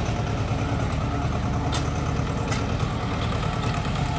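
Tractor engine running steadily while driving a sugarcane crusher, a constant low drone, with two short sharp clicks near the middle.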